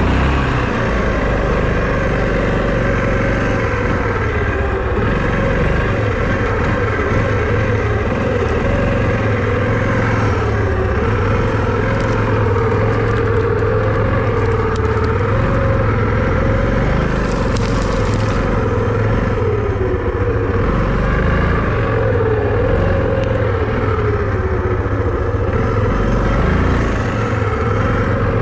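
Vehicle engine running steadily under changing throttle, its pitch wavering up and down, with a brief hiss about seventeen seconds in.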